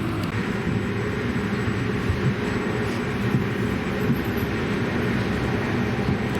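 Regional passenger train running along the line: a steady rumble, with a few light knocks from the wheels on the track.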